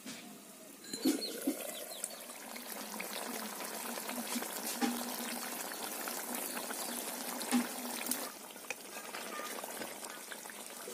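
Chicken curry sizzling and bubbling in hot oil in an iron kadai, with a couple of metal clanks about a second in as the sizzle suddenly gets louder. The sizzle drops quieter near the end as a metal spatula stirs the pan.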